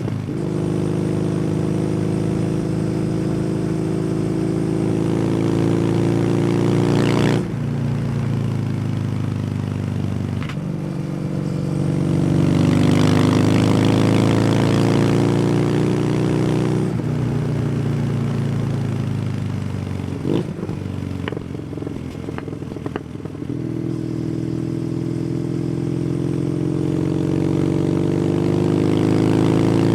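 Kawasaki W800's air-cooled parallel-twin engine through an SC Project aftermarket exhaust, riding on the open road: it pulls up through the revs, backs off, and picks up again, with several gear changes and a few clicks around the middle. Wind rushes past the microphone as it goes.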